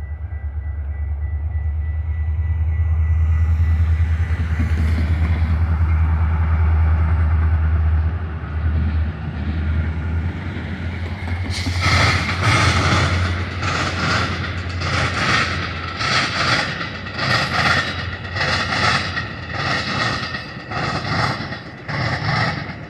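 Metra diesel commuter train passing close by. The locomotive's engine gives a loud low rumble through the first several seconds, then the bilevel coaches' wheels clatter over the track joints in a steady rhythm, about one clack a second.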